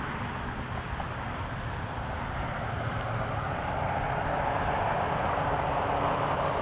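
Jet airliner engine noise, a steady rush that grows somewhat louder in the second half.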